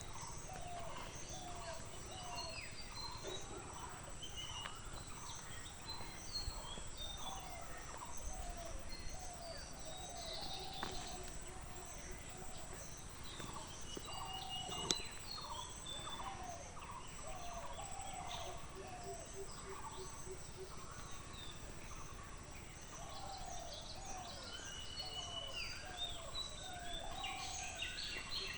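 Many birds calling together, with repeated short low calls and higher chirps overlapping throughout over a faint steady background hiss. A single sharp click about halfway through.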